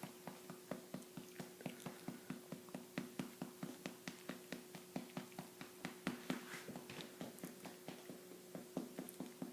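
Yorkshire terrier feeding: a steady run of small wet mouth clicks, about four a second, over a faint steady hum.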